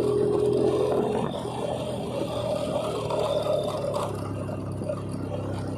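Motorcycle engine running under way, mixed with wind and road noise; its pitch shifts about two seconds in.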